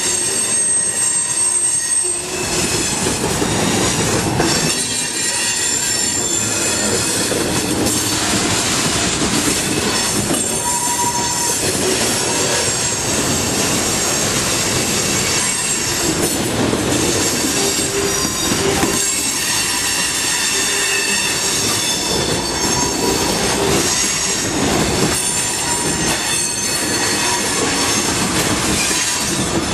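Freight train cars rolling past in a steady stream: continuous wheel and rail noise with shifting high-pitched wheel squeal.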